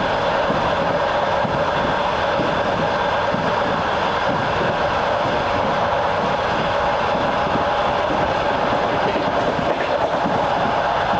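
Train wheels running along the track at a steady speed, an even rumble of wheels on rails heard from on board the moving train.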